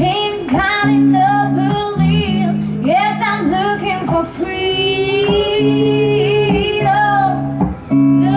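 Live rock/soul band with a female lead vocalist singing wordless, wavering lines over sustained chords and guitar, holding one long note in the middle.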